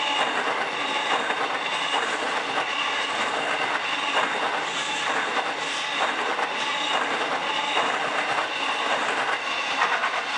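Long freight train rolling through the station, its wagons' wheels clattering over the rail joints with a steady rumble and a faint high wheel squeal.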